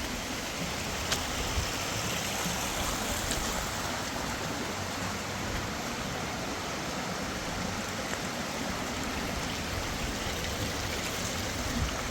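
Fast-flowing mountain river rushing steadily, a dense even wash of water noise.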